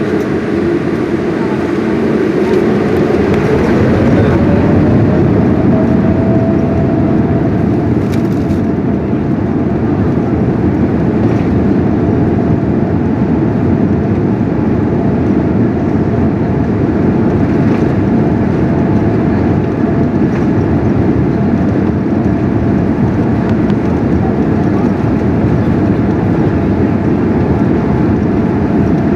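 Boeing 787 Dreamliner's jet engines heard from inside the cabin: a loud steady rushing roar, with an engine whine that rises in pitch a few seconds in and then holds steady, as the engines spool up to take-off power.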